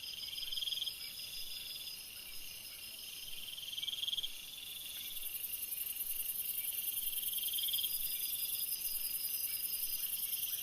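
Chorus of crickets and other insects: several steady, high-pitched trills at different pitches, some swelling and fading in bursts, with a still higher buzz growing louder about four and a half seconds in.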